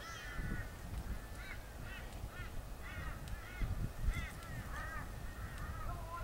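Birds calling, a run of short honking calls repeated several times a second, over a low rumble.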